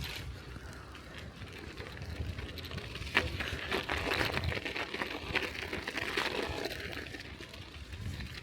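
Bicycle riding over snow-covered streets: tyres rolling with a crackling hiss over a low rumble. There is a sharp click about three seconds in, and the crackle grows louder for a few seconds after it before easing.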